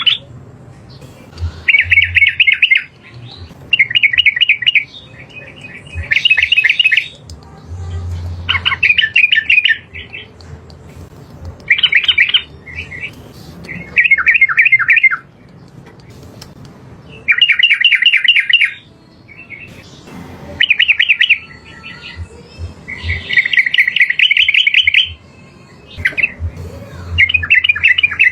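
Yellow-vented bulbul (trucukan) singing: short, rapid chattering phrases of quick repeated notes, about one every two seconds, loud and clear.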